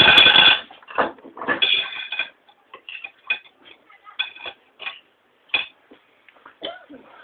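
Cutlery clinking and tapping on a plate or bowl during a meal, a string of short irregular clicks. It opens with a brief loud, high-pitched sound.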